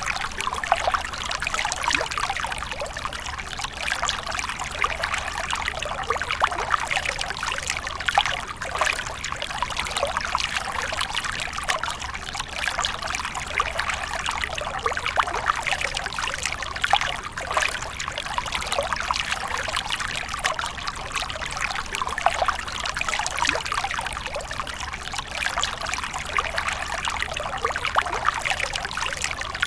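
Water splashing and trickling continuously, a steady dense patter of small splashes and drips.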